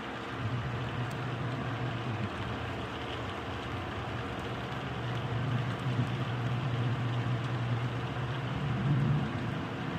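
Rain falling steadily, with a low continuous rumble under it that swells near the end.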